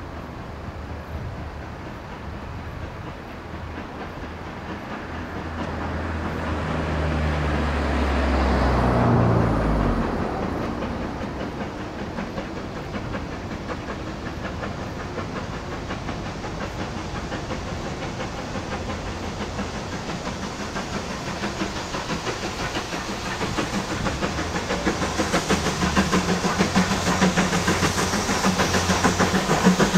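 Ex-GWR 2-8-0 tank engine 5224 working hard up a steep gradient, its steam exhaust beats growing louder and more rhythmic near the end as it approaches. Something passes close by about nine seconds in, its pitch dropping as it goes.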